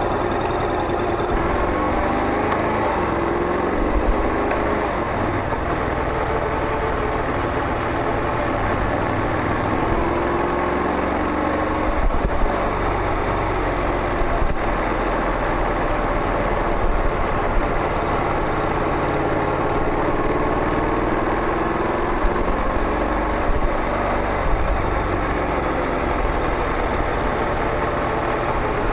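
Honda NC700X DCT's parallel-twin engine running through a Beams slip-on muffler: a steady exhaust note that slowly rises and falls in pitch.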